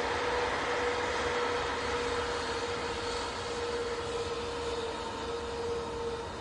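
Airbus A350's Rolls-Royce Trent XWB jet engines running with a steady whine over a broad rush, slowly fading as the landing aircraft moves away.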